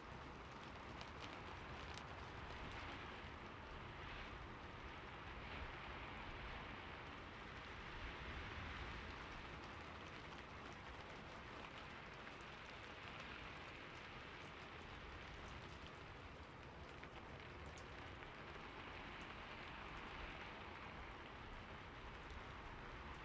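Steady rain falling on a roof: an even hiss with scattered ticks of single drops.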